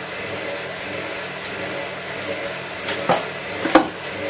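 Hotpoint 9534A washing machine running with a steady mechanical noise, with two sharp knocks, one about three seconds in and a louder one near the end.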